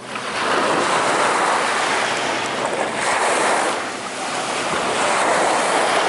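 Ocean surf washing in, with wind buffeting the microphone; the noise swells, eases off about two-thirds of the way through, then builds again.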